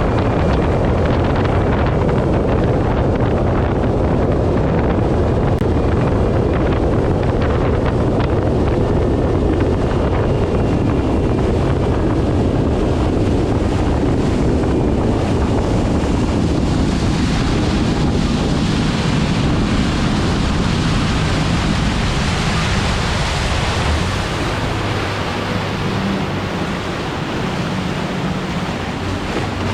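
Boat with a Yamaha 225 outboard running at speed: wind buffeting the microphone and rushing water over the engine's drone. About three-quarters of the way through the rush eases and the outboard's steady hum comes through more clearly.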